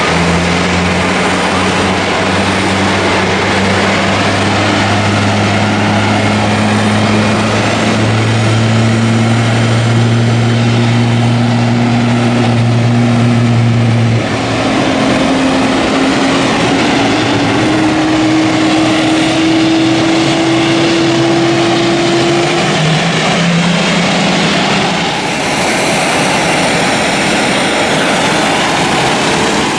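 Airbus A350-900's Rolls-Royce Trent XWB turbofans at takeoff power: a loud, steady jet roar carrying a few engine tones that slowly climb in pitch.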